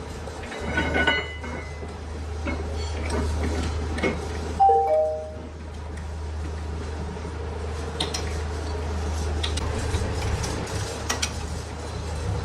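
Metal parts clinking and clanking by hand over a steady low machine hum. About four and a half seconds in comes the loudest sound: three short tones, each lower than the last.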